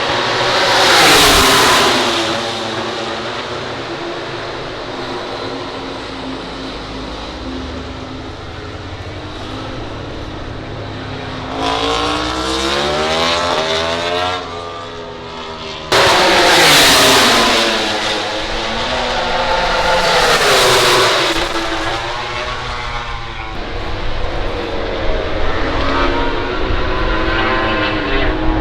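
MotoGP racing motorcycles passing at speed, one after another. Several loud pass-bys drop in pitch as each bike goes by, and between them engines rev up and down through gear changes.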